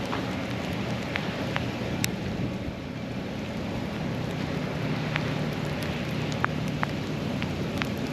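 Sleet (falling ice pellets) pattering steadily, with scattered sharp ticks as pellets strike hard surfaces, over a low steady hum.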